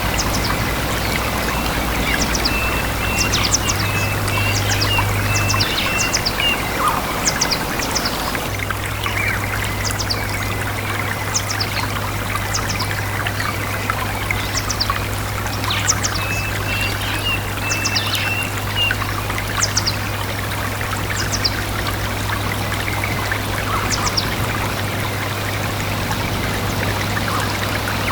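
A stream running steadily, with small birds calling over it in short, high, repeated chirps and an occasional buzzy trill.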